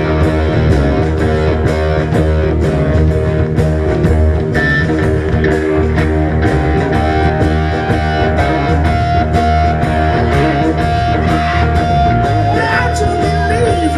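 Live rock band playing an instrumental passage: electric guitar over bass and a steady drum beat, with a long held guitar note from about halfway through.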